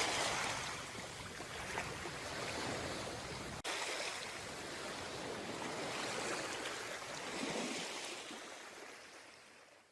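Sea water washing and surging, swelling and easing every few seconds, with a brief break about three and a half seconds in, then fading out near the end.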